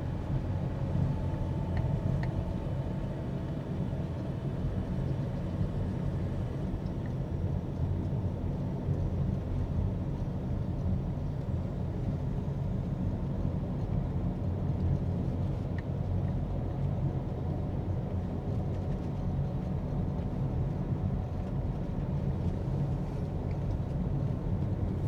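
Vehicle driving at a steady pace: a continuous low rumble of engine and road noise with no change in speed.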